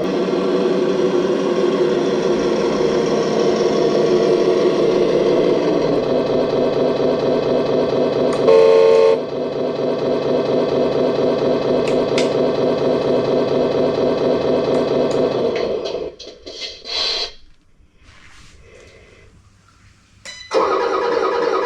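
Radio-controlled toy excavator's electric motors running with a steady whine, broken by a short beep about a third of the way in. The sound drops away a little after halfway and starts up again near the end.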